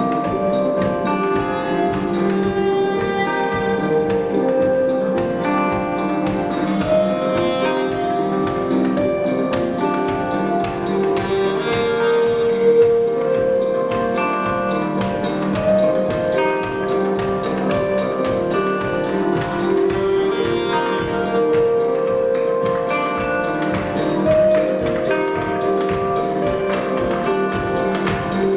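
Instrumental band playing live: a steady quick percussive pulse under held, layered melodic notes.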